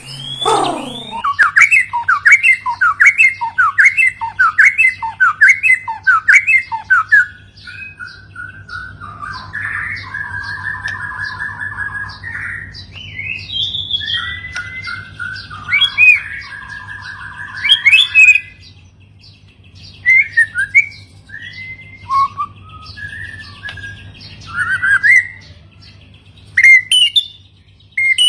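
White-rumped shama (murai batu) song: a run of about a dozen swooping whistles, roughly two a second, then buzzy rattling phrases and short scattered whistles with pauses between.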